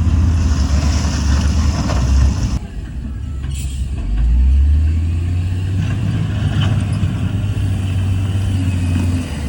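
Heavy diesel earthmoving machine's engine running under load. It drops off briefly about two and a half seconds in, then picks up again and runs steadily. A hiss rides on it during the first two seconds.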